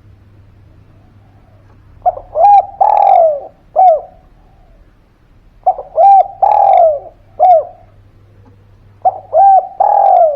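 Spotted dove cooing: three repeated phrases a few seconds apart, each two short coos, a longer falling coo and a short closing coo.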